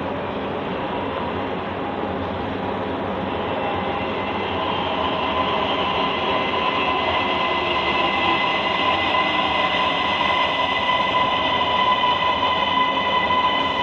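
Subway train running, with a steady noise under a high electric whine of several even tones that comes in about four seconds in and grows louder.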